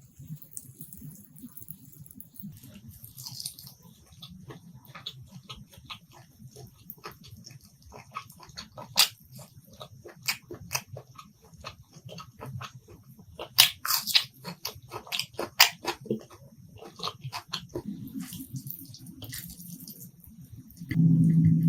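Close-miked eating sounds: wet chewing, lip smacks and mouth clicks from someone eating rice and curry, coming irregularly with a few sharper snaps in the middle. A loud steady low hum comes in just before the end.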